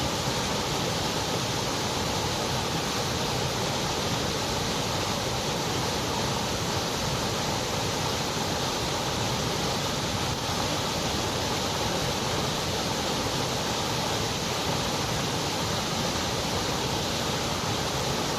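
Steady, unchanging white noise: an even hiss across the whole range, with no events or variation.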